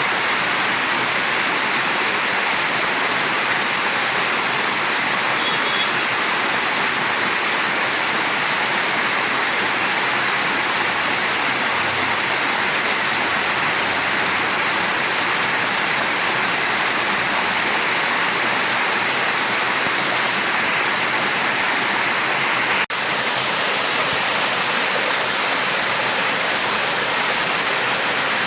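Mountain stream rushing steadily over rocks, with one split-second gap in the sound about 23 seconds in.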